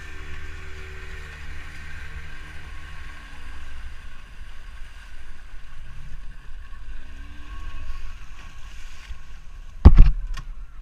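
Motorboat running on open water, a steady low rumble with a faint whine. Just before the end there is one loud sharp knock, followed by a couple of small clicks.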